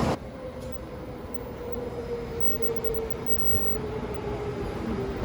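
Train running, with a rumble and a steady whine that drifts slightly down in pitch, the whole sound slowly growing louder.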